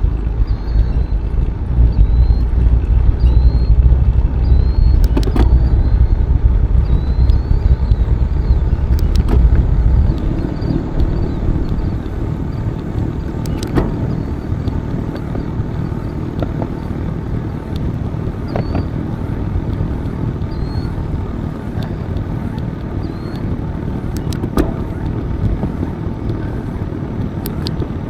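Wind on the microphone and the rolling noise of a bicycle ride: a heavy low rumble for about the first ten seconds, then a lighter steady rush, with a few sharp clicks and faint high chirps.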